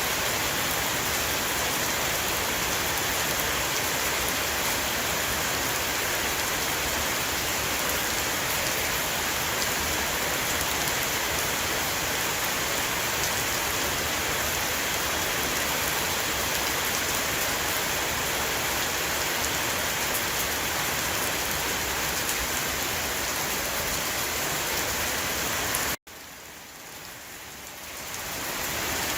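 Heavy rain pouring steadily onto a roof, an even rushing patter. About 26 seconds in the sound cuts out abruptly and swells back to full strength over the next two seconds, as at the seam of a looped recording.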